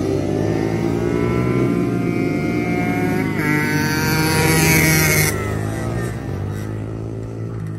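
Small two-stroke mini moto racing engines revving as the bikes lap the track, their pitch rising and falling through the gears. The sound is loudest about four to five seconds in, then its hissy top end drops away suddenly.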